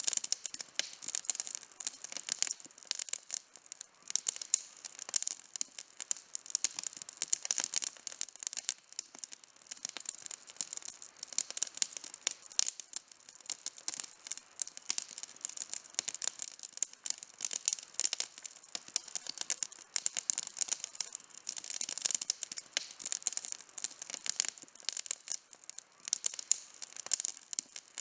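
Wood campfire burning, crackling continuously: a dense stream of small sharp pops and snaps, mostly high-pitched, with no low rumble.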